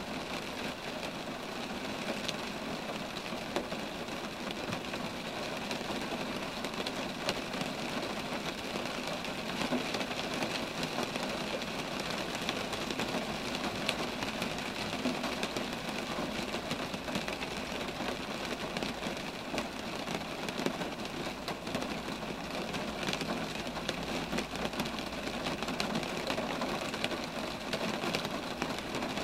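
Steady rain falling on roadside trees, an even hiss with many individual drops ticking.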